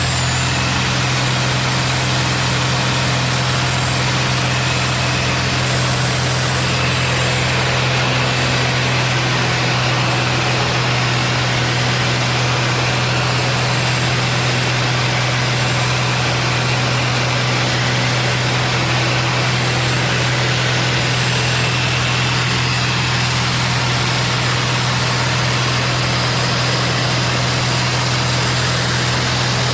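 Steady drone of a Zlin Z-226MS's piston engine and propeller in flight, heard from inside the cockpit, holding an even pitch throughout.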